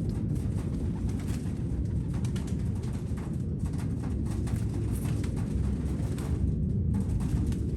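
Damascene pigeons cooing, several birds overlapping in a steady low murmur, with faint scattered ticks above it.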